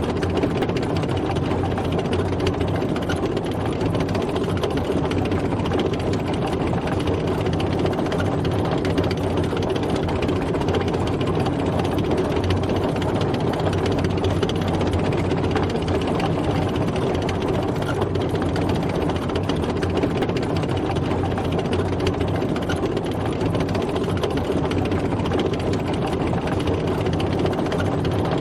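Tank driving, its engine running steadily at an even pitch and level.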